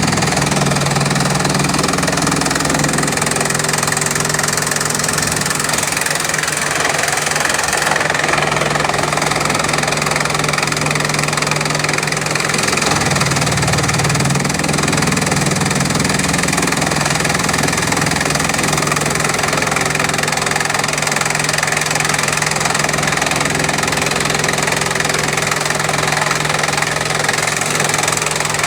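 Bamboo chipping machine running steadily and chipping bamboo: a loud, even mechanical din over a constant low hum.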